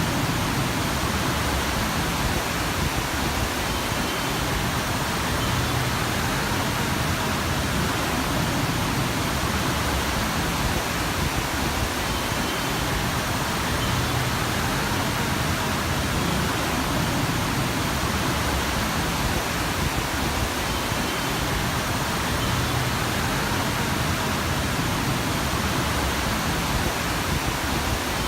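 Heavy monsoon rain falling: a steady, even rushing hiss with no breaks.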